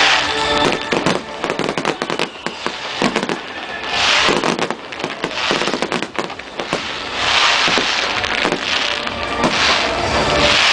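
New Year's Eve fireworks display going off: many sharp bangs and pops, with swells of crackling noise every few seconds.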